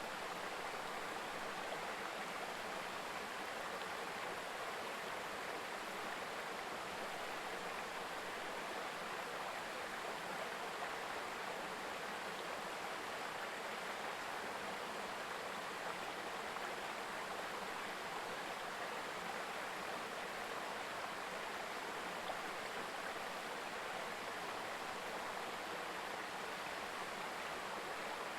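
A shallow mountain stream murmuring, an even, unbroken rush of running water.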